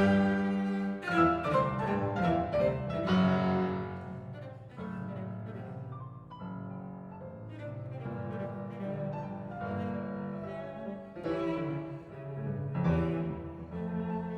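Instrumental music with cello and piano played back through Elfton Vegas II four-way loudspeakers and heard in the room. The first few seconds are louder, with struck note onsets over held low string notes; the middle is softer.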